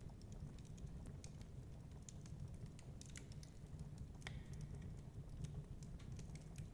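Wood fire crackling, with small irregular pops and one sharper pop about four seconds in, over a steady low rumble.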